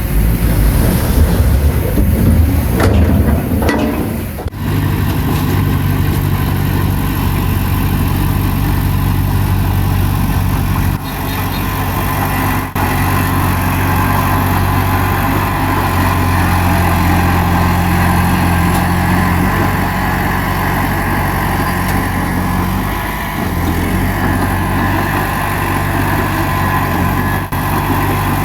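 Bulldozer's diesel engine running steadily under work, its note shifting a few times as throttle and load change. The first few seconds are louder, with a gliding change in pitch about three to four seconds in.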